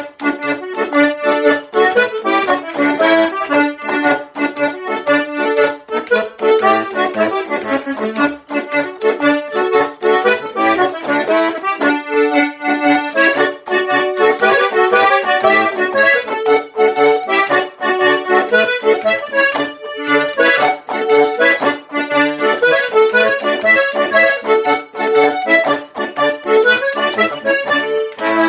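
An English folk dance tune played on an instrument, in a lively run of quick, evenly spaced notes.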